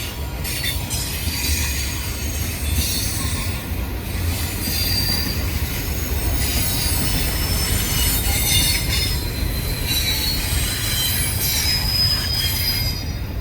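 Freight train cars rolling past on steel rails: a steady low rumble, with thin high-pitched wheel squeals that come and go.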